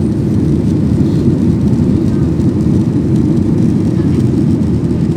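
Steady low rumble of an airliner heard from inside the passenger cabin: engine and airflow noise in flight.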